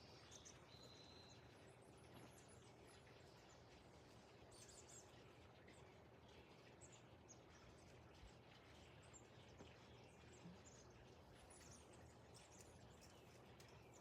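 Near silence, with faint scattered short bird chirps.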